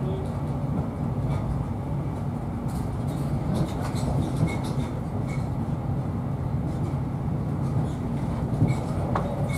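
Inside a Mark 3 passenger coach of a Class 43 HST running at speed: steady low rumble of wheels on rail, with scattered light clicks.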